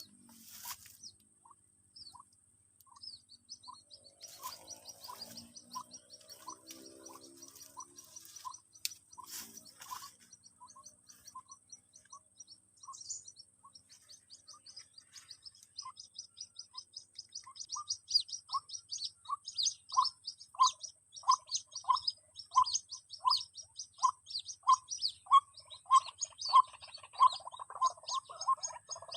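Bird calls: short peeping notes repeated about two a second, with quick high chirping over them that thickens and grows louder in the second half.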